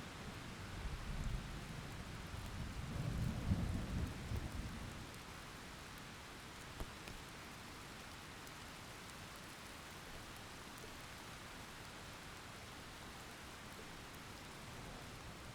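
Heavy rain falling steadily, with a low rumble of thunder in the first few seconds that fades out about five seconds in.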